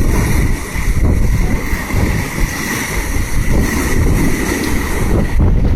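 Strong wind buffeting the microphone over rough, choppy sea, with waves washing against the boat.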